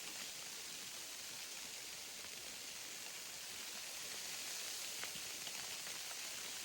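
Falling snow hitting a tarp pitched over a hammock: a steady hiss with scattered faint ticks of flakes striking the fabric.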